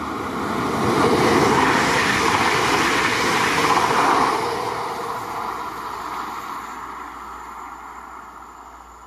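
An Alstom Coradia Liner V160 passenger multiple unit passing by on the rails. Its rush of wheel and running noise builds, is loudest from about one to four seconds in, then fades steadily as it goes away.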